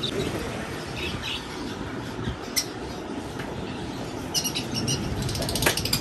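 Small birds chirping in short, high-pitched bursts, scattered several times over steady background noise.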